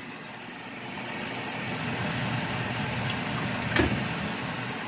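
Ground chicken with potatoes and carrots cooking in a pan, a steady sizzle that grows a little louder about a second in, with a single sharp knock near the end, as of a utensil striking the pan.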